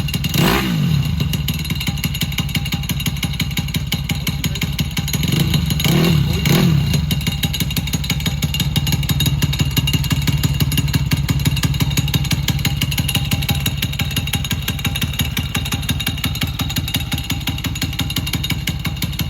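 Custom Honda Monkey's 124 cc single-cylinder engine with a desmodromic head, exhausting through a KTM 690 muffler. It blips the throttle just after the start and twice about six seconds in, then settles into a steady idle.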